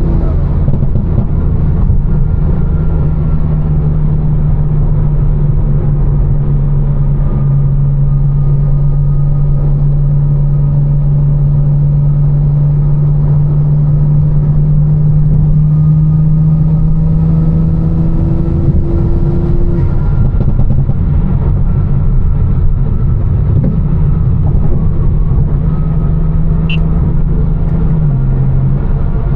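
Tuned BMW M4's twin-turbo inline-six, with catless downpipes and an aftermarket exhaust, droning steadily while cruising. Its pitch steps down about a quarter of the way in and again near the end, over tyre noise on a wet road.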